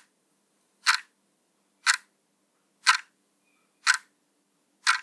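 Countdown timer sound effect: short, crisp clock ticks, one each second, evenly spaced.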